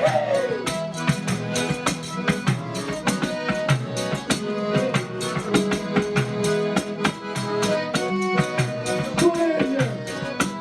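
Live folk band playing an instrumental passage between sung verses: drum and hand percussion keep a steady, quick beat under a melody instrument holding notes.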